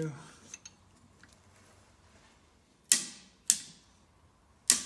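Click-type torque wrench breaking over at its 15 ft-lb setting on a VW air-cooled engine's crankcase nut: two sharp clicks about half a second apart about three seconds in, and another near the end. Each click means the set torque has been reached.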